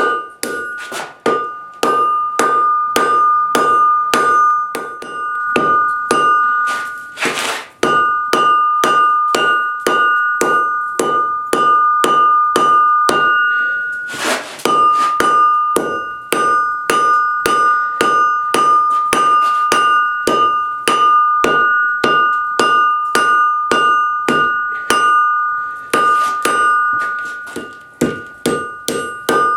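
Hand hammer striking steel on an anvil in a steady rhythm, about two blows a second, each leaving a clear ringing tone. Twice a brief rushing noise cuts in and the ring stops for a moment.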